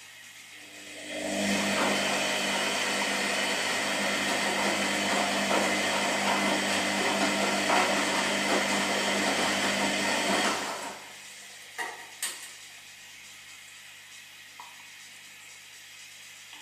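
Washing machine running with a steady motor hum for about ten seconds, then stopping. Two clicks follow, then a quiet pause before it starts again at the very end.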